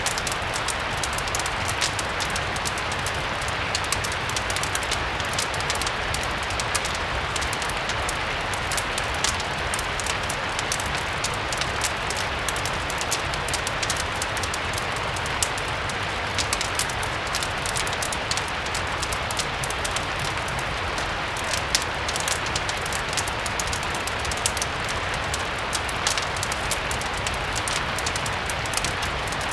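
Steady rain, blended with a crackling fireplace that gives a constant scatter of small sharp crackles, over a low rumble underneath. The sound holds even throughout.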